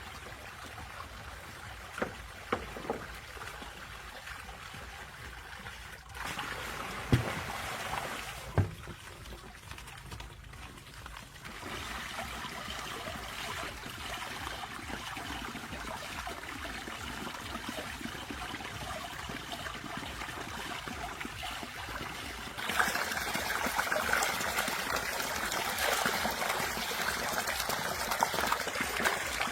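Water trickling and running, with the flow changing abruptly several times and getting louder near the end. A few sharp knocks come in the first nine seconds.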